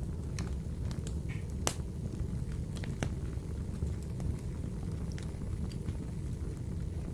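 Wood fire burning in a wood-burning stove: a steady low rumble of the flames with scattered sharp crackles and pops, the loudest pop about a second and a half in.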